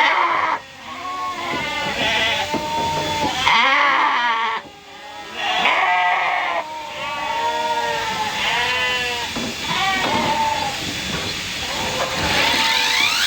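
Sheep bleating over and over, several calls overlapping. Near the end a rising whine climbs steeply as the electric shearing handpiece comes up to speed.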